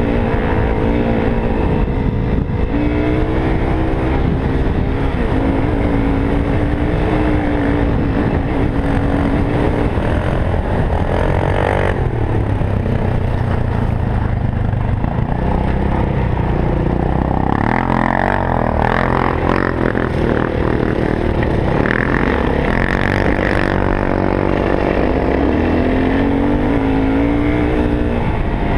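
Yamaha WR450F single-cylinder four-stroke dirt bike engine running under way, its pitch rising and falling as the throttle opens and closes, with a rougher, noisier stretch in the middle.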